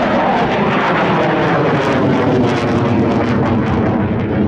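Aircraft engine running loud and steady during a low aerobatic display flight, a dense roar with several steady low tones.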